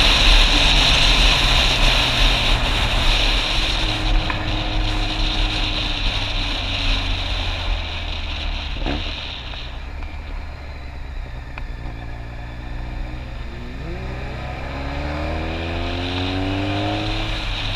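Motorcycle engine running on the move, with loud wind noise on the microphone that eases about ten seconds in. Near the end the engine pitch rises as it accelerates.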